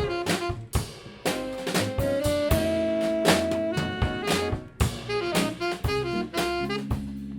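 Live band playing jazz: a melody line of held and moving notes over a drum kit's steady hits.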